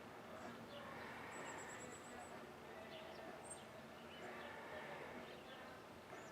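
Small birds chirping faintly in the background, with a quick, very high-pitched trill of about eight notes a little over a second in and scattered short chirps, over a faint steady outdoor hum.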